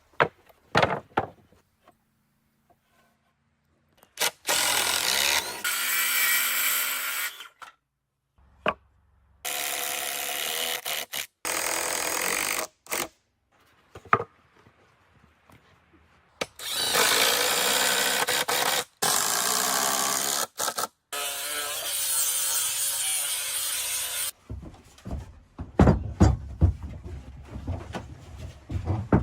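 Power drill working into wood in three runs of a few seconds each, the last and longest about eight seconds. Near the end come a cluster of sharp knocks and clatter.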